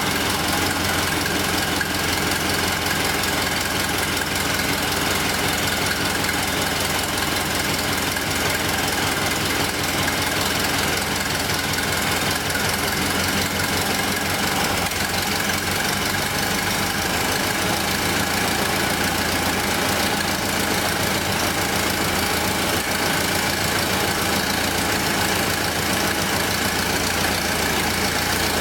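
1931 Ford Model A's original four-cylinder flathead engine running steadily at an even speed.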